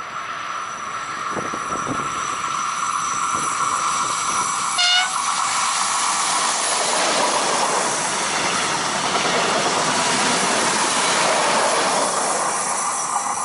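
Electric locomotive hauling a train of double-deck passenger coaches passes close by at speed, giving one short horn blast about five seconds in. The rush of the wheels and coaches builds, holds while the train goes by, and fades near the end.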